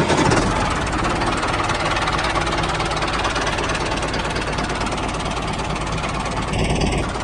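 Vehicle engine running steadily with a rapid, even knocking beat, like a diesel tractor engine.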